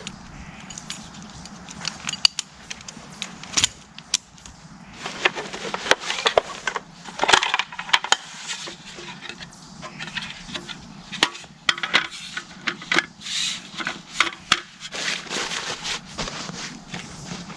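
Dry twigs and wood cracking and crunching in many irregular sharp snaps.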